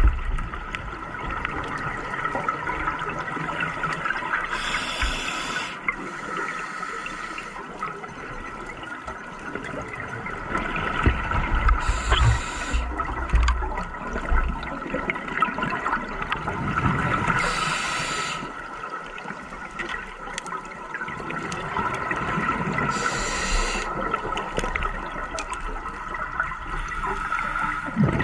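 Scuba diver breathing underwater through a regulator: a short hiss of inhalation every five or six seconds, with bubbling exhalations rumbling in between.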